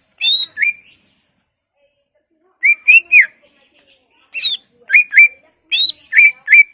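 Cucak ijo (green leafbird) singing: loud, clear whistled notes in quick groups of two or three, many sliding down in pitch, with a pause of about a second and a half shortly after the start.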